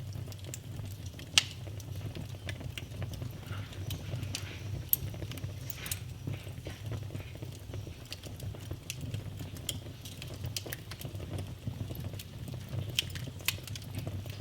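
Wood fire burning in a fireplace: a low steady rumble with frequent sharp crackles and pops. The loudest pop comes about a second and a half in.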